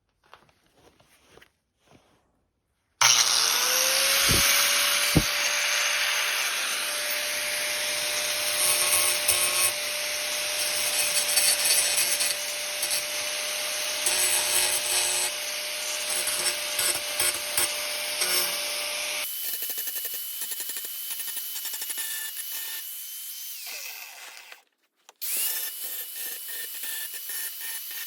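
Electric power tool switched on about three seconds in, its motor spinning up and then running under load on the work. Near the end it changes to a quieter, high steady whine, cuts out briefly and starts again.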